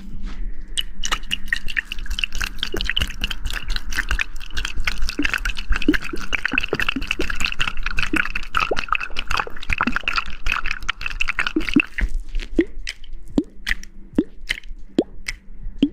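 Close-miked ASMR hair-washing sounds: a dense run of small wet squishes and crackles of lather, which thins out to scattered clicks about three-quarters of the way through.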